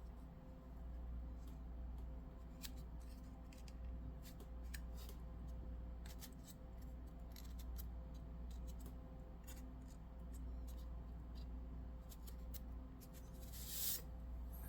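Faint, scattered small clicks and ticks of hands removing packing foam from a model locomotive, with a short rustle near the end, over a steady low hum.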